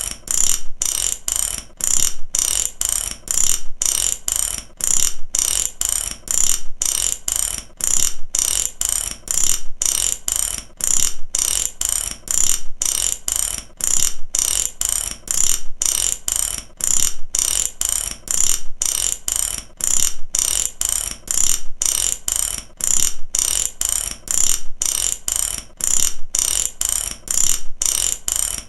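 Ratchet wrench (mechanic's ratchet) clicking over and over, its pawl snapping across the gear teeth in quick even runs about twice a second, without a break.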